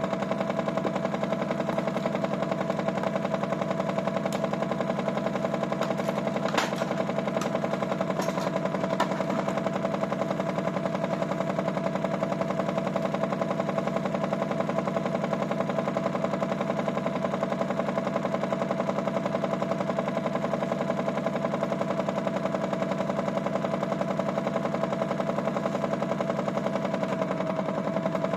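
Toy Miele W1 washing machine's small motor running steadily with a constant hum, with a few sharp clicks about six to nine seconds in.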